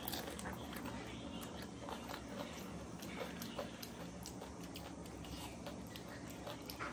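A person chewing panipuri: the crisp fried puri shells crunch in irregular little cracks while she chews.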